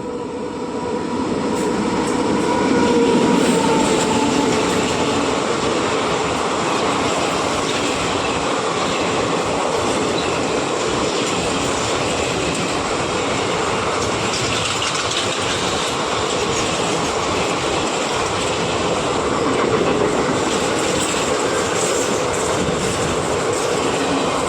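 Express passenger train running through the station without stopping: the rolling noise of its wheels on the rails builds over the first few seconds and then holds steady and loud as the coaches go by.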